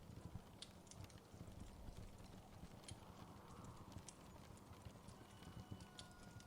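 Wood fire crackling faintly: scattered small snaps and pops at irregular intervals over a steady low rumble.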